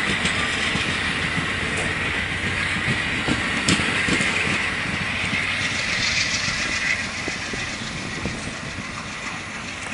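Shoreline East commuter train pulling away from the station, its wheels rolling over the rails with scattered clicks. The rumble slowly fades through the last few seconds.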